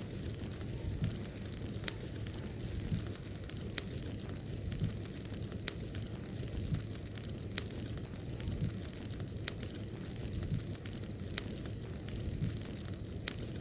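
Village bonfire burning: a steady low rush of flame with small irregular crackles. Over it runs a thin, steady high-pitched tone, and a sharp click comes about every two seconds.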